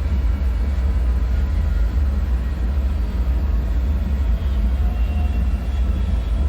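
Steady deep rumbling drone with a hissing haze over it, the low hum of an abandoned-bunker ambience. Faint thin whining tones drift in near the end.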